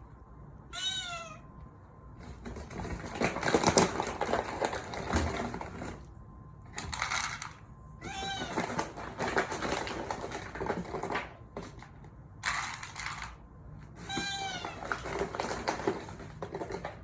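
A cat meowing repeatedly, about five short meows, calling for food. Between the meows there are stretches of clicky rustling noise.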